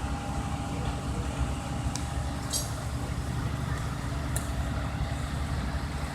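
Heavy truck engine running at a steady idle, a low rumble with a faint steady whine above it, and a few light clicks.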